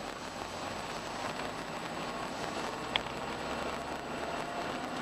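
Road and engine noise inside a moving truck's cab driven slowly, a steady hiss with a low hum, and one sharp click about three seconds in.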